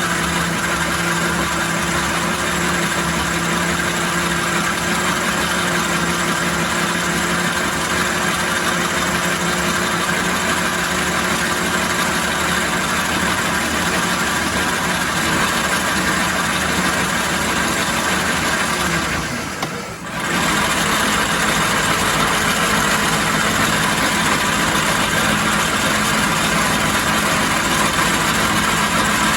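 Logan 210 lathe running under load while taking a cut, its three-phase motor on a variable frequency drive and its flat belt giving a steady machine hum. The sound dips briefly about two-thirds of the way through, then carries on with a slightly changed tone.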